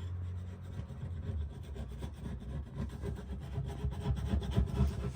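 Hand scraper scraping paint softened by paint stripper off a wooden cabinet part, in a run of uneven rubbing strokes.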